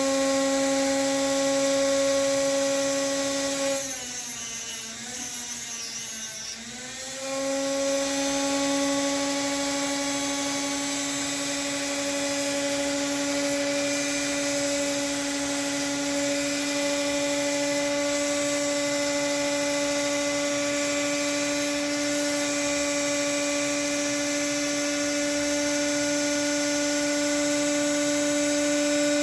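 Small high-speed rotary tool running with a steady whine, grinding model-train axles down to length. About four seconds in it sags in pitch and drops in level for roughly three seconds as it bears on the work, then picks back up to full speed.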